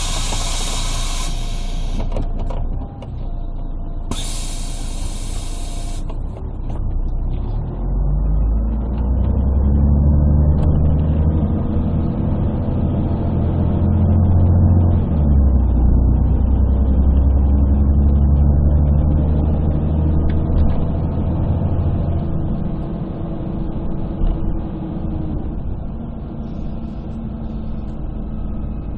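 Inside a 1998 Scania CN113CLL city bus: two sharp bursts of compressed-air hiss near the start, then the Scania DSC11 diesel with its Voith automatic gearbox pulls away, its pitch climbing, dropping at a gearshift about halfway and climbing again before easing off. The sound is muffled and bass-heavy from a partly covered phone microphone.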